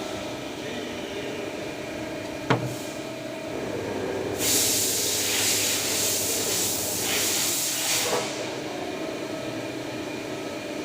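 CNC machine running with a steady hum and several steady tones. A single sharp click comes about two and a half seconds in, then a loud hiss of about four seconds starts suddenly and stops.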